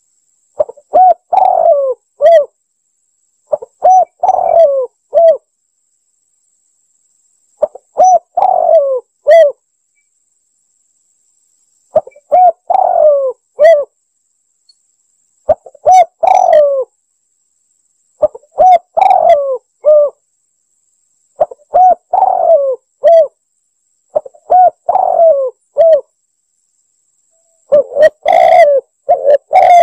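Spotted dove cooing: repeated short phrases of several low coos, one phrase every three to four seconds, with silence between them.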